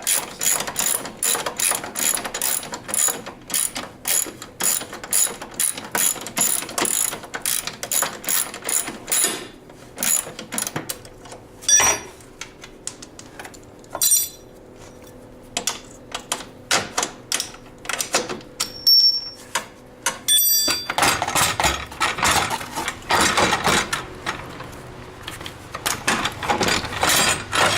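Hand ratchet wrench clicking in long, rapid runs as loosened suspension bolts on a snowmobile are spun off, with pauses and a few single metal clicks in between.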